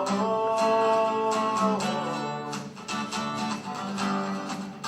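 A man's sung note held over a strummed guitar, the voice ending about two seconds in and the guitar strumming on alone.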